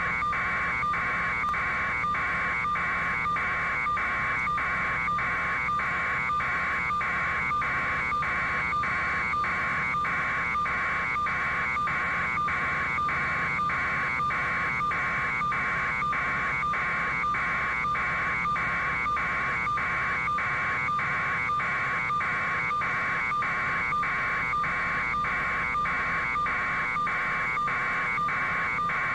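Electronic alarm buzzer sounding in a steady rapid pulse, about two beeps a second, without a break.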